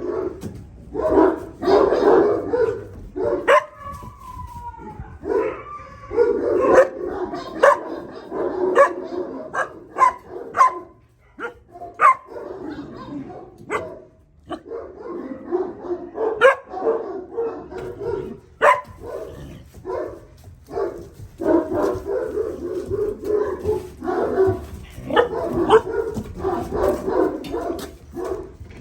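Puppies about two and a half months old barking and yipping in short bursts, with a falling whine a few seconds in. Sharp clicks and knocks run through it.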